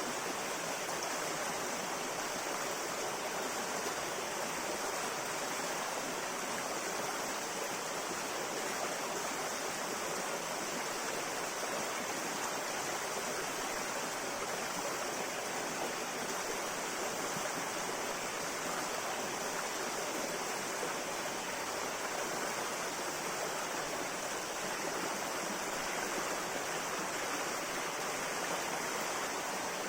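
Clear river water flowing steadily over rocks, an even rushing and babbling with no change.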